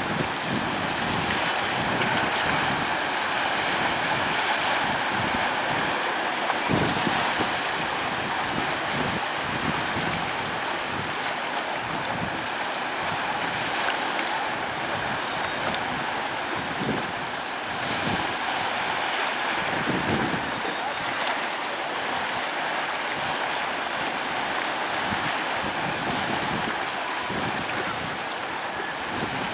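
Sea surf washing on a sandy beach, a steady rushing noise with gentle swells, mixed with wind buffeting the microphone.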